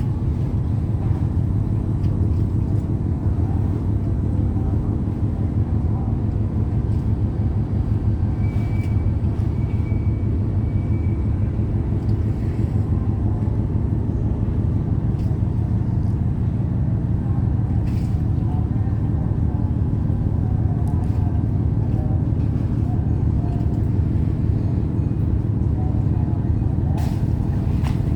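Large diesel engines running steadily at a low, even drone, with fine rapid pulsing and no change in speed.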